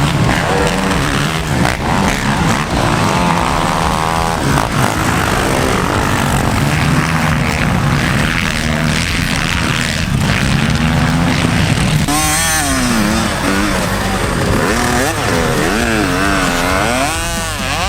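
Off-road vehicle engine running. From about twelve seconds in, its pitch rises and falls repeatedly as it is revved.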